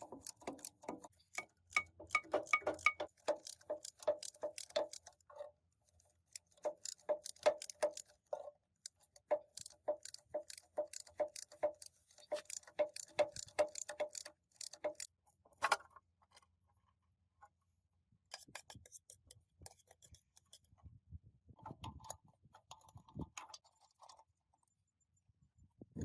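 Runs of quick, light clicks, several a second, each run lasting a few seconds with short pauses between, and one sharper knock about midway. The clicking is typical of hand-tool work on metal parts.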